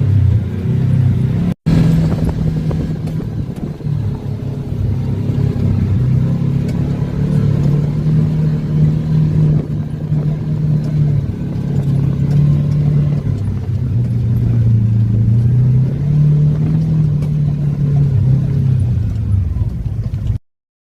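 Off-road vehicle engine running under load on a trail, its pitch rising and falling as the throttle changes. There is a brief break about a second and a half in, and the sound cuts off abruptly near the end.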